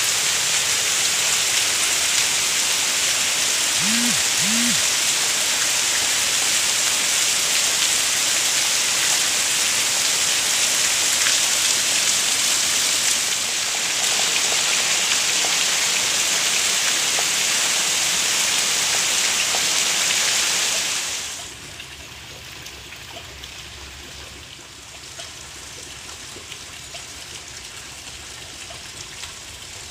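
Heavy rain pouring down, a loud steady hiss of rain hitting wet ground and roofing. About two-thirds of the way through it drops suddenly to a much fainter rain hiss.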